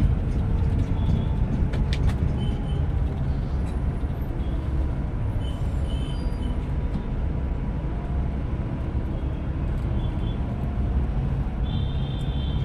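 Steady low rumble of a Scania Metrolink multi-axle coach running, heard from inside the cabin, with faint high tones near the end.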